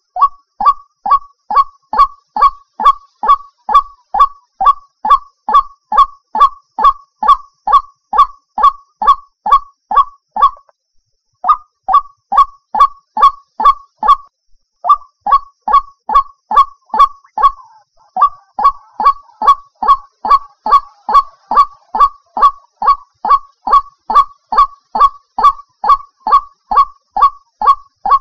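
White-breasted waterhen (ruak-ruak) calling: a fast, steady run of short, honking 'kwak' notes, about two and a half a second, broken by two brief pauses near the middle. This is a lure call used to draw the bird in.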